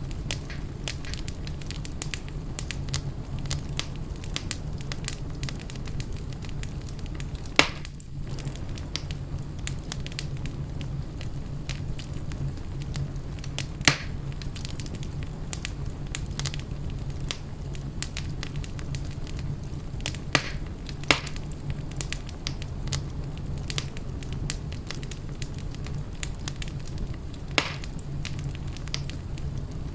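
Fire burning in a fireplace: a steady low rumble of flames with constant small crackles, and five louder pops, two of them close together about two thirds of the way in.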